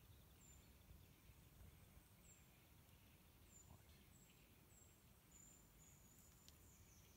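Near silence, with faint high, short chirps from a small bird repeating about once a second, and a longer chirp near the end.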